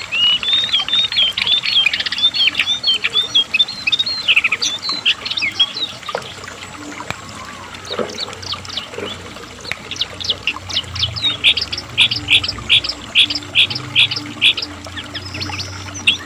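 Brown cingcoang (jongkangan), a shortwing, singing: a rapid warbling jumble of high notes, then after a sparser stretch a run of sharp repeated notes at about three a second.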